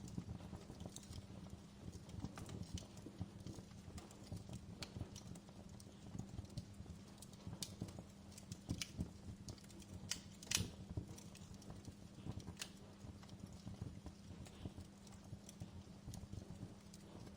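Wood fire crackling in a fireplace: irregular small pops and snaps over a low steady rumble, with one sharper pop about ten seconds in.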